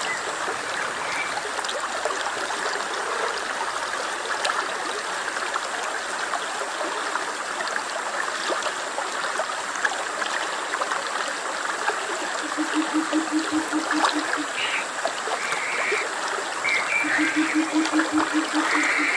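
Stream water running steadily. Twice in the second half, a low, rapidly pulsed animal call joins it for about two seconds each time.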